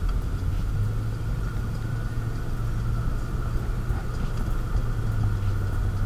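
A car running steadily, with a constant low engine hum and rumble and a faint steady higher tone; there are no sudden changes.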